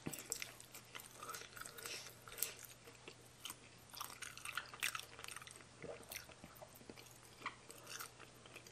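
A person chewing and biting food, with many small, irregular crunchy and wet clicks.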